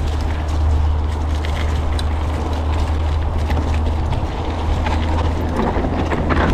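Mountain bike riding along a dirt trail, heard from a GoPro on the bike or rider: a steady low wind rumble on the microphone, tyre noise on dirt, and scattered clicks and rattles from the bike.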